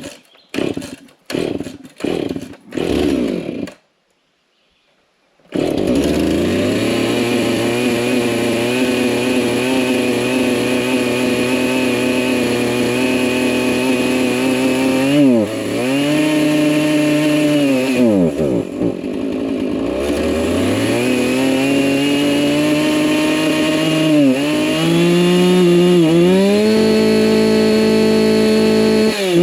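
Old two-stroke Husqvarna chainsaw being pull-started with a few short pulls, then running continuously. Its speed sags twice and then climbs in steps, slow to pick up revs after months of sitting on stale fuel and oil with a perished primer bulb.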